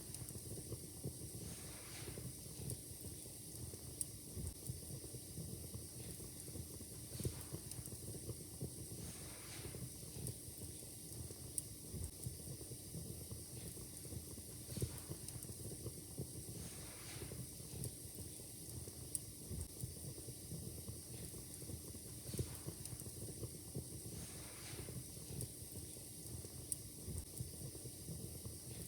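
Wood fire crackling in a fireplace: a steady run of small snaps and pops, with a sharper pop every few seconds and short hissing flare-ups, over a faint steady hiss.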